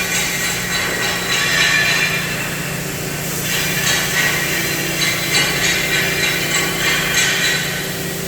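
CNC gas and plasma cutting machine running: a steady hum under a hiss that swells and fades every second or two.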